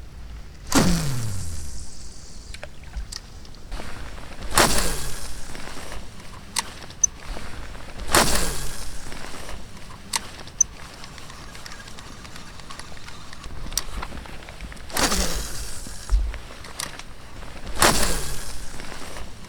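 Oars rowing an inflatable PVC boat: five long swishing strokes through the water, about one every three to four seconds with a longer pause mid-way, and small sharp clicks between strokes.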